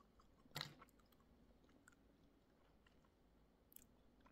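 Faint chewing and mouth sounds of someone eating sweet tamarind pulp, with one short, louder click about half a second in.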